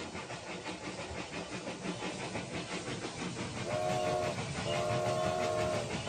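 Battery-powered Rail King toy steam train running, its built-in sound effect playing a quick, steady chuffing. About two-thirds of the way in, a recorded steam-whistle sound sounds twice, first briefly and then longer.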